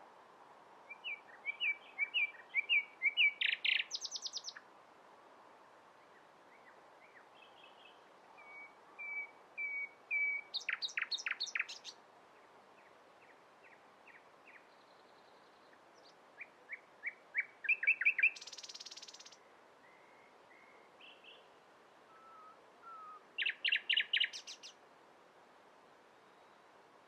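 Nightingale singing: four separate song phrases of repeated whistled notes and rapid trills, one with a buzzy stretch, with quiet pauses between them.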